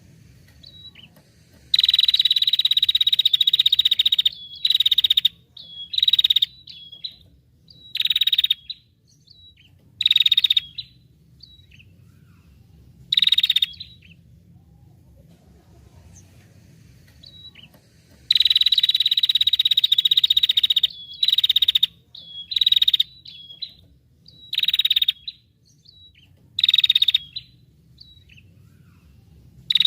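A small songbird sings loud, fast buzzy trills: one long trill of a couple of seconds, then a string of short bursts about a second or two apart. The whole sequence repeats, starting again about halfway through.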